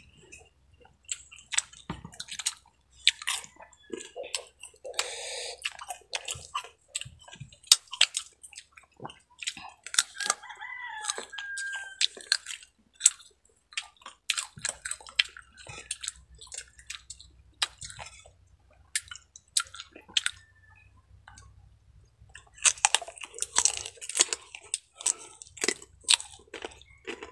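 Crisp crunching and chewing of raw green mango slices, many sharp bites one after another, thickest near the end. A rooster crows once in the background about ten seconds in.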